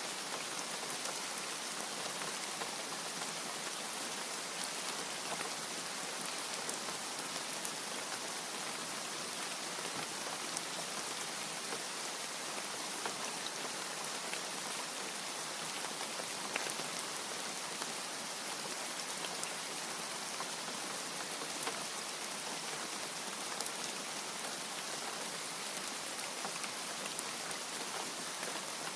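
Steady rain: a dense, even hiss with scattered sharper ticks of single drops, and no thunder.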